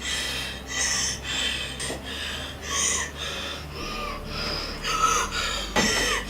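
A person gasping for breath in quick, heavy, irregular breaths, the labored breathing of a woman who is dying.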